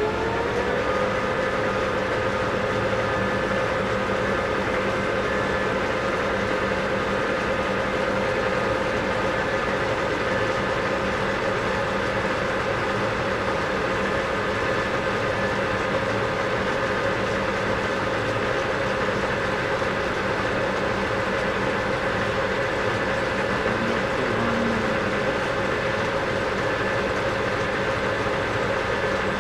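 South Bend 14-1/2 lathe starting up, its pitch rising and levelling off about a second in, then running steadily at about 562 RPM with a steady gear whine while turning a shaft.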